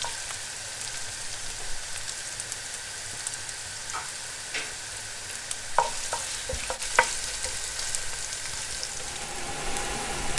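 Julienned ginger and chopped garlic sizzling in hot coconut oil in a clay pot. They are stirred with a wooden spatula, which clicks and scrapes against the pot a few times.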